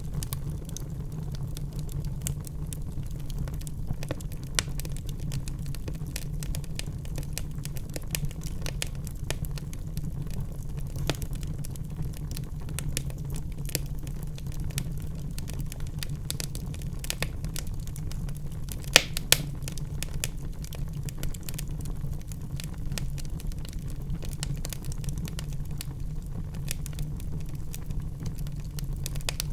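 Wood fire crackling in a fireplace: irregular sharp pops and snaps over a steady low rumble, with two louder pops in quick succession about two-thirds of the way through.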